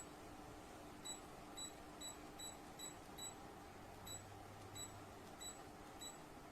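Short, high electronic beeps from an oscillating tower fan's control beeper, about a dozen at uneven intervals like repeated button presses, over a faint steady hum.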